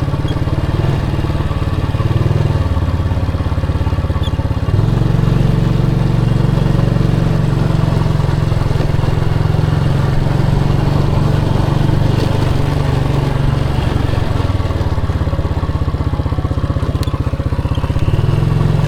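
Motorcycle engine running as it is ridden, its note shifting a couple of seconds in, rising and getting louder about five seconds in, and changing again near the end as the throttle changes.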